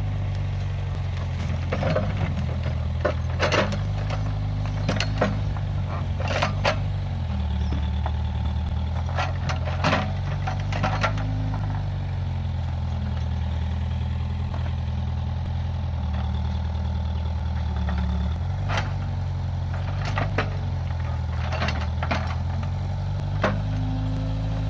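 Case 580G backhoe loader's diesel engine running steadily, its note dropping lower for several seconds in the middle and then returning, with scattered sharp knocks and cracks throughout.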